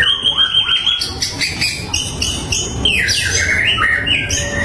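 White-rumped shama (murai batu) singing a loud, continuous, varied song of clear whistles, gliding notes and rapid repeated notes.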